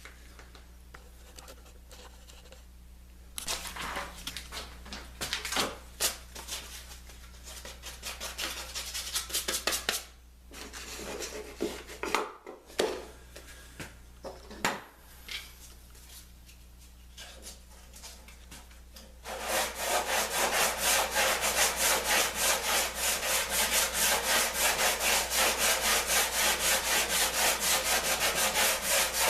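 Hand tool worked back and forth on wood. Scattered scrapes and knocks give way, about 19 seconds in, to loud even strokes at about three a second.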